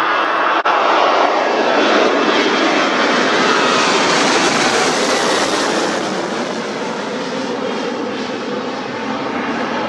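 Jet airliner's engines at takeoff power as it departs: a loud, steady jet rush that swells in the first few seconds, then eases as the aircraft moves away. Gliding engine tones run through the rush.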